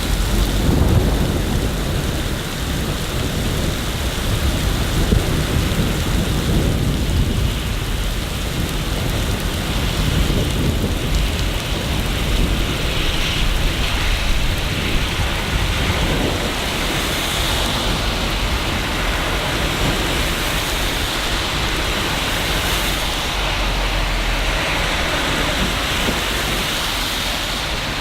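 Steady heavy rain with a low rolling rumble of thunder, strongest over the first several seconds.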